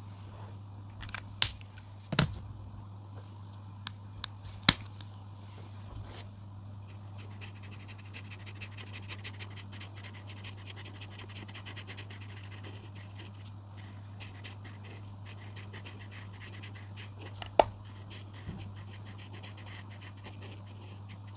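Coloring strokes scratching on paper, a fast run of short back-and-forth strokes in the middle, with a few sharp clicks, likely a coloring tool being picked up or set down. A steady low hum runs underneath.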